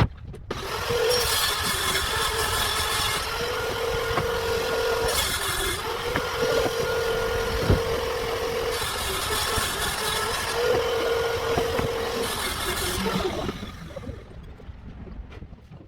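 A motor-driven machine running steadily with a steady hum and intermittent hiss, then winding down and fading out near the end.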